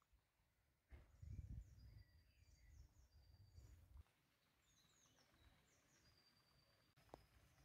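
Faint birdsong: small birds giving short high chirps and thin whistled notes again and again. A low rumble sits under the first half, and there is a single click near the end.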